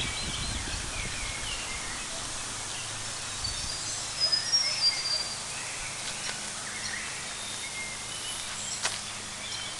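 Steady rush of a fast-flowing flooded creek with birds calling over it, short chirps and whistles clustering about four seconds in. Wind buffets the microphone in the first few seconds.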